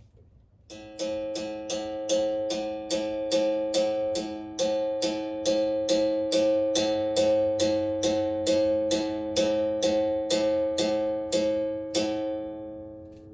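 Berimbau struck with a stick in a steady, even rhythm, about three strokes a second, each ringing on the same droning note. It starts about a second in and stops near the end.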